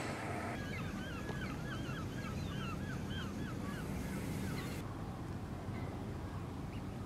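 A bird giving a rapid series of short, repeated calls, about three a second, starting about half a second in and stopping near five seconds, over a steady low rumble.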